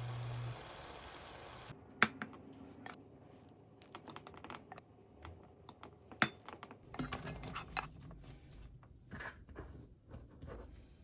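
Scattered clicks and clinks of kitchen utensils and dishes being handled. The sharpest click comes about two seconds in and a quick cluster comes around seven seconds in. A low steady hum cuts off about half a second in.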